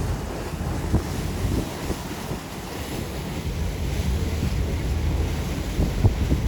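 Wind buffeting the microphone aboard a moving tour boat: a loud, low rumble that swells and eases in gusts, mixed with the boat's running and water noise.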